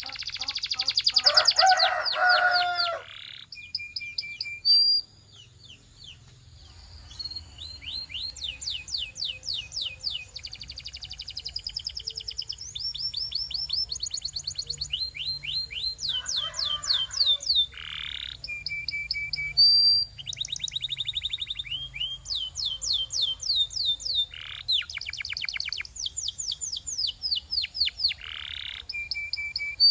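Domestic canary singing a long song of fast trills, each a quick run of repeated notes at one pitch that switches to a new phrase every second or two. A louder, lower rolling trill comes near the start.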